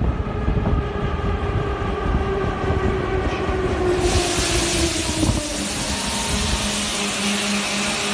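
A train rolling into a station and slowing: a heavy low rumble with a whine that falls in pitch as it slows. About four seconds in, a loud steady hiss starts suddenly. The rumble then dies away, leaving a steady hum.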